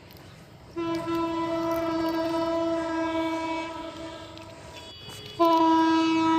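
Locomotive air horn sounding two long steady blasts: the first lasts about four seconds, and a second, louder one starts after a short break.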